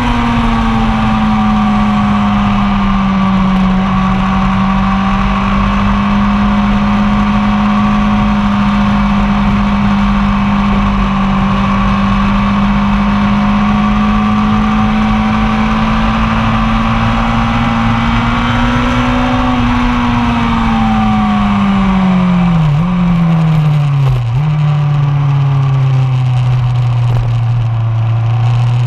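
1999 Yamaha R1's inline-four engine held at high revs for a long stretch, then dropping in pitch with two quick dips as it is shifted down, and pulling up again near the end.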